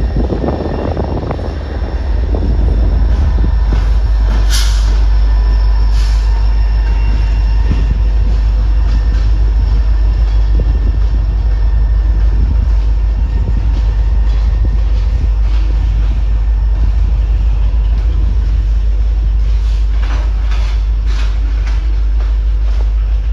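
Norfolk Southern freight train rolling past, with a steady heavy rumble of wheels on rail that swells about two seconds in. Brief sharp clicks sound from the wheels a few seconds in and again in a cluster near the end.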